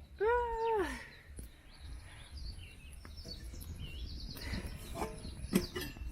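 Rural outdoor ambience with small birds chirping. Near the start there is one drawn-out call that rises and then falls, and later a few sharp knocks, the loudest about five and a half seconds in.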